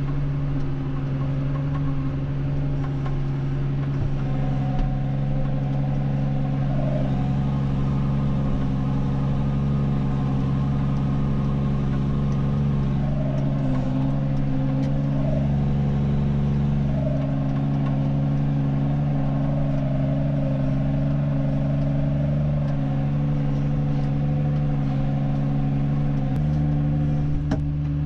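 Tractor engine running steadily under load while pulling a plough, with a constant low drone and a slight change in pitch near the end.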